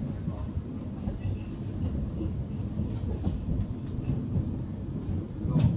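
Interior running noise of a Class 700 Desiro City electric multiple unit: a steady low rumble of wheels on track, with a louder knock near the end.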